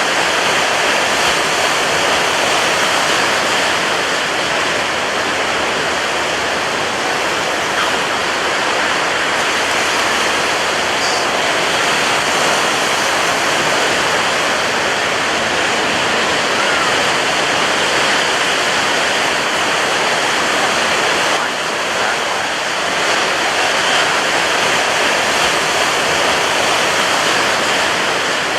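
Ocean waves crashing on a beach: a dense, steady wash of surf, easing slightly for a moment about three quarters of the way through.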